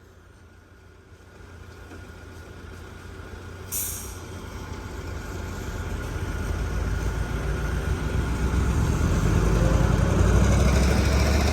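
Backhoe loader's diesel engine rumbling and growing steadily louder. A single short hiss of air comes about four seconds in.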